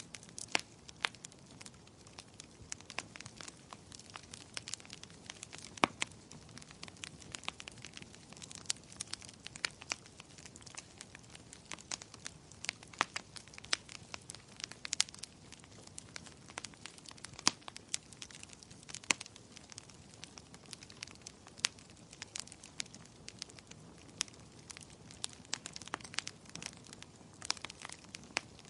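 Wood fire crackling: irregular sharp pops and snaps over a soft low hiss of burning.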